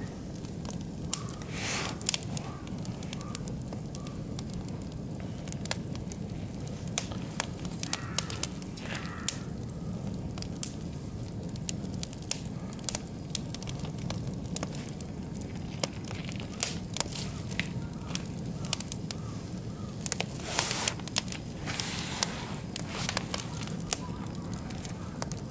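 Oak and beech logs burning in an open wood fire, crackling with frequent irregular sharp pops over a steady low rumble. The crackling thickens into denser bursts a couple of times, most strongly about twenty seconds in.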